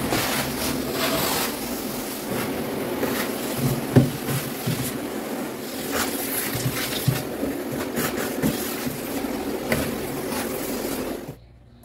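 Household cleaning and handling noises: a steady rustling scrub with scattered clacks and knocks, a louder knock about four seconds in, cutting off shortly before the end.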